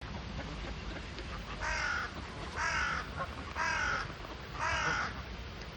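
A bird giving four harsh calls in a row, each about half a second long and about a second apart.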